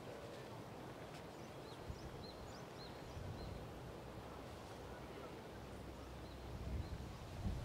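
Outdoor ambience with a small bird chirping a quick run of short, high notes, and a few fainter chirps later. A low background rumble runs underneath, with a few soft thumps near the end.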